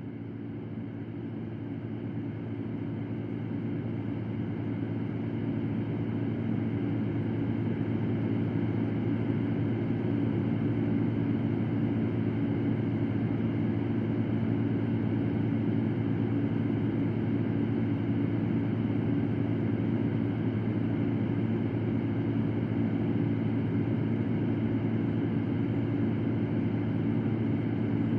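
Electric fan running steadily: an even rush of air over a low motor hum. It swells in level over the first several seconds, then holds constant.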